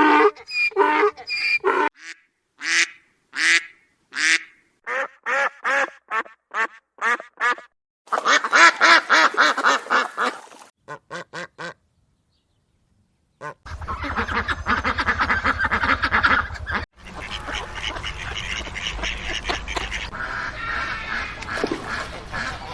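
Ducks quacking: a run of short single quacks, then longer stretches of rapid, overlapping quacking, with a brief silence a little past the middle.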